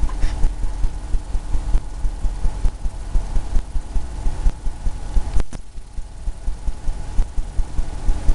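Oil-paint brush dabbing and tapping against a canvas on an easel in quick dull thumps, about five a second, with a brief pause a little past halfway.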